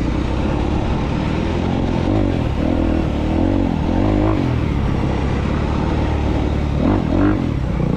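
2022 Honda CRF250R's single-cylinder four-stroke engine pulling at low speed through tight trail, the revs rising and falling several times with throttle blips, the sharpest rev about seven seconds in.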